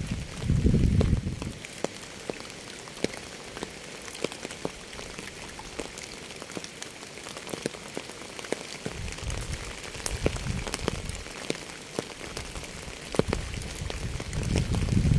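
Steady rain, with many individual drops ticking sharply on a surface. A low rumble swells and fades a few times: at the start, around two-thirds of the way through, and again near the end.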